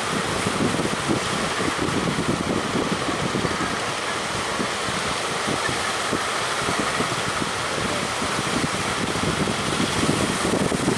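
Strong wind buffeting the microphone in a steady, gusty rumble, over the wash of waves breaking.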